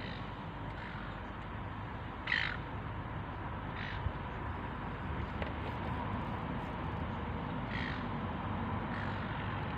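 A bird calling a few times, short harsh calls: the loudest about two seconds in, others near four and eight seconds, over steady background noise.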